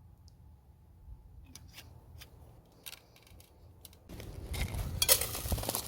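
Scissors snipping: a few scattered clicks, then about four seconds in a louder run of quick cuts.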